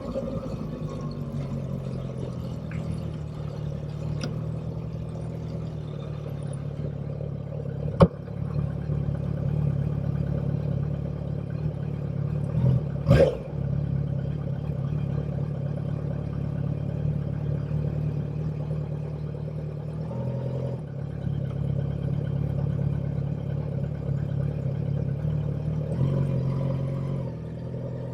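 Motorcycle engine running steadily while riding, its note shifting about twenty seconds in and again near the end. A sharp click about eight seconds in and a louder short knock about thirteen seconds in.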